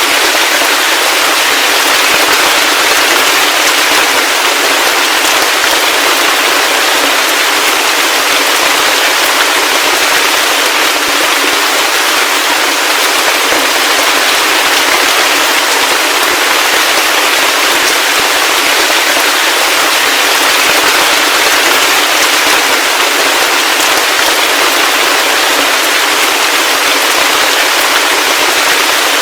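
Heavy rain falling steadily: a loud, dense, even patter of drops with a fine crackle and no low rumble or thunder.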